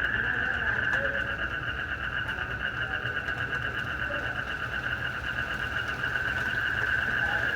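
Night chorus of crickets and frogs: a continuous high trill, pulsing fast and steady, over a low rumble.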